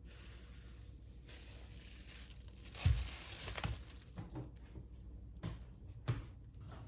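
Close handling noise: rustling and crinkling for a couple of seconds, loudest about three seconds in, with a few light knocks.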